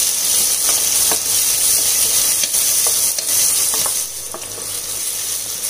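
Chopped onions, green chillies and curry leaves sizzling in hot oil in a pressure pan as a wooden spatula stirs them, with scattered taps and scrapes of the spatula on the pan; the onions are being sautéed until translucent. The sizzling gets a little quieter after about four seconds.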